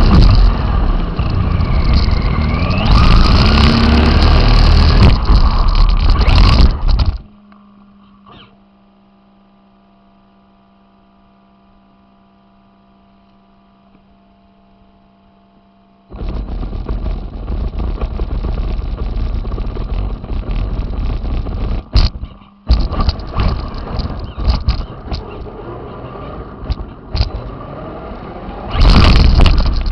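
Radio-controlled car driving over hilly ground, heard close up: loud rough running noise with a motor whine rising and falling. About a quarter of the way in it drops abruptly to a faint steady hum for some nine seconds. Then the driving noise returns, with a brief cut-out a little past two-thirds of the way and a louder surge near the end.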